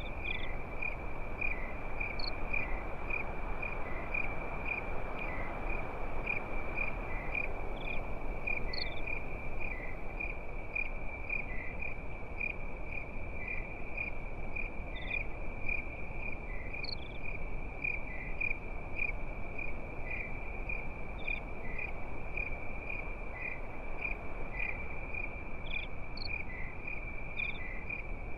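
Crickets chirping at night: a steady, high, evenly pulsing trill, with a few higher chirps from other insects now and then, over a soft steady hiss.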